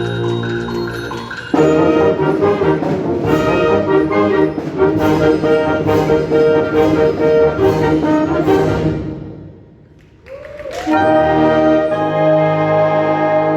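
Concert wind band playing, with the brass prominent. Held chords open out about a second and a half in into a loud full-band passage with regularly spaced percussion strokes. This dies away to a brief lull, then a short swooping note leads into sustained brass chords.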